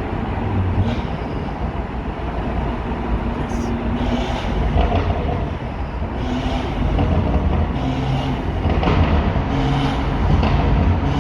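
Tuned BMW M140i's turbocharged 3.0-litre B58 straight-six through an aftermarket Quicksilver exhaust, heard from inside the cabin while driving. The engine note shifts pitch several times.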